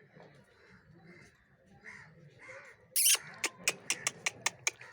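Pet parrot giving a loud, harsh screech about three seconds in, then a rapid run of short, sharp squawks, about five a second: an angry, agitated bird.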